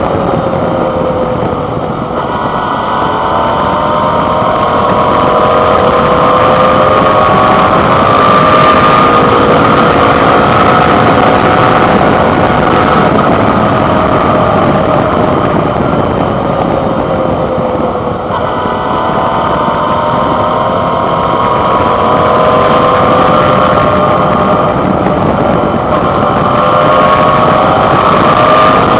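Suzuki V-Strom 650's V-twin engine under way, heard from the handlebar along with wind rush. The engine note climbs and eases off in long, slow swells, with a short dip and step in pitch about eighteen seconds in.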